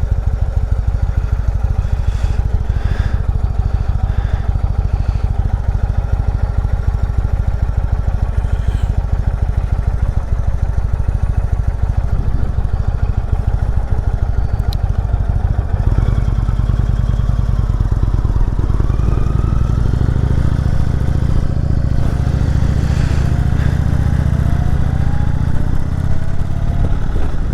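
Indian V-twin motorcycle engine running under load on a steep climb. About two-thirds of the way through, its low rumble gets louder and fuller, and near the end the revs rise several times.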